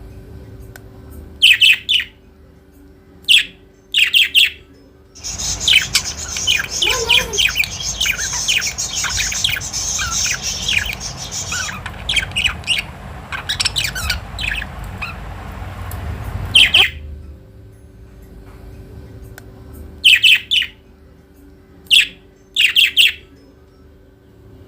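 Pet budgerigars calling: single sharp chirps now and then, with a long stretch of dense, fast chattering in the middle.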